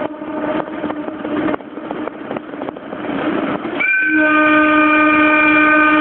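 Japanese railway air horns blown from compressed-air tanks. A held horn tone cuts off just after the start, leaving the rush of wind and road noise. About four seconds in, a high blast starts with a quick rise in pitch and a lower tone joins it a moment later: an AW-5 typhon and an AW-2 whistle sounding together, as on a limited-express train.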